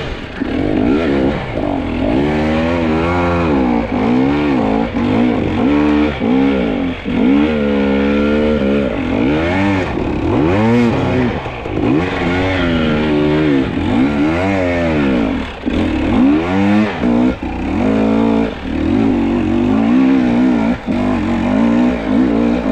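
Two-stroke enduro dirt bike engine revving up and falling back over and over, about once a second, as the throttle is worked on a steep, loose hill climb.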